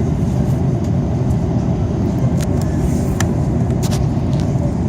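Airbus A330 airliner in flight on approach: a steady low roar of engines and airflow heard inside the cabin, with a few faint clicks and rattles.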